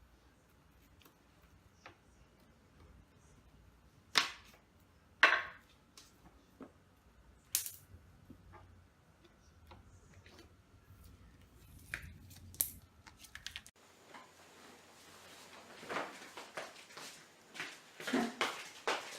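Scattered sharp clicks and knocks of handling in a small room, a few of them louder, with an abrupt change in the background about two-thirds through and a busier run of clicks after it.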